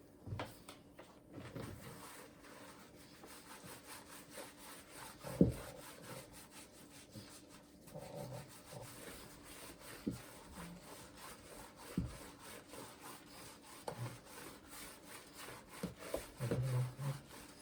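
Hands rubbing and scrubbing an elderly pug's coat in repeated, rapid strokes, with a few sharp knocks, the loudest about five seconds in.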